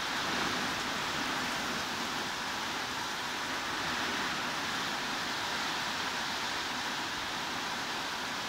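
Steady, even hiss of heavy rain, with no separate drops or other sounds standing out.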